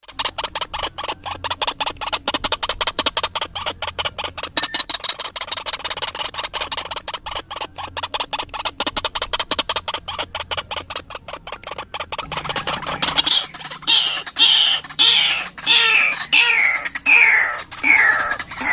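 White-breasted waterhen (ruak-ruak) calling: a fast, dense chatter of rapid clicking notes, then, about thirteen seconds in, loud harsh notes that slide downward in pitch, about two a second.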